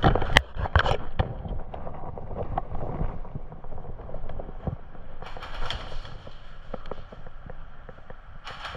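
A few sharp airsoft gun shots in the first second, then scattered small clicks and two brief bursts of rustling, about five seconds in and near the end.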